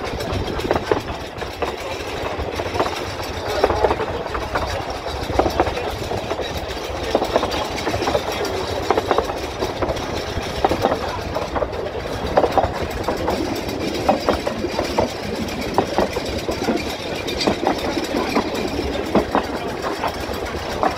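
Narrow-gauge railway carriages running along the line, wheels clicking and rattling irregularly over the rail joints above a steady running rumble, with wind buffeting a microphone held out of the carriage window.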